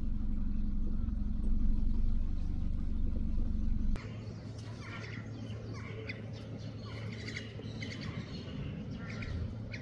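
A steady low hum for about four seconds, then after an abrupt change, birds chirping: many short, separate calls one after another.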